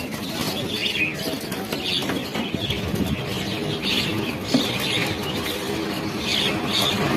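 A large flock of birds calling with many short, repeated chirps over a steady, dense rustle of wings.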